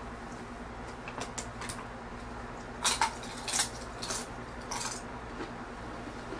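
Tortilla chip dipped in guacamole being bitten and chewed: a few faint clicks, then about halfway through a quick run of about five loud, sharp crunches.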